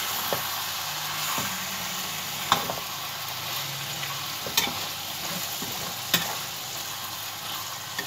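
Potatoes, fenugreek leaves and tomatoes sizzling in oil in a pan while a spoon stirs them, with a few sharp knocks of the spoon against the pan.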